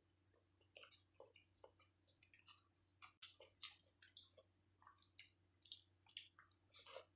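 Faint, wet chewing of a mouthful of chicken biryani, with small smacks and clicks of the mouth coming irregularly, several a second.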